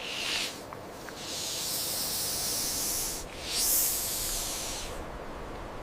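Snake hissing: a short hiss, then two long hisses of about two seconds and a second and a half.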